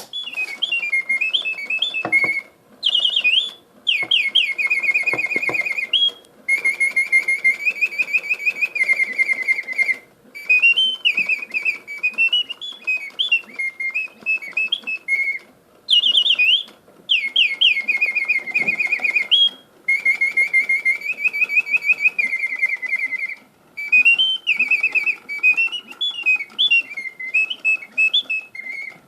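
Bontems automaton singing bird, its bellows-blown piston whistle giving birdsong: phrases of quick swooping whistles, trills and held high notes, each broken off by a short pause before the next.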